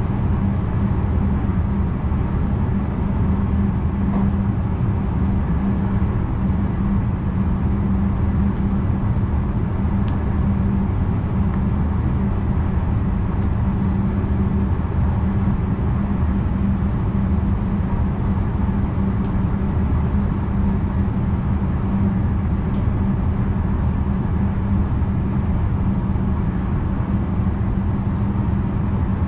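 Steady running noise of a VIRM double-deck electric train, heard from inside the driver's cab: a constant low hum with a few faint ticks.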